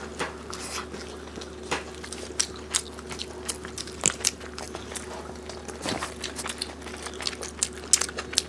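Close-miked mouth sounds of eating rice and meat curry by hand: irregular chewing, biting and wet lip smacks, with sharp clicks every fraction of a second.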